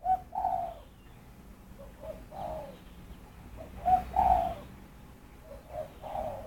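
A bird calling in four short phrases about two seconds apart, each a brief note followed by a longer one.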